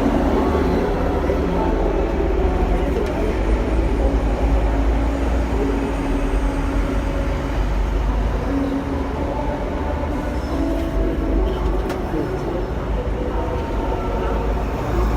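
Hong Kong double-decker electric tram running along its tracks, heard from on board: a steady low rumble of wheels and motor.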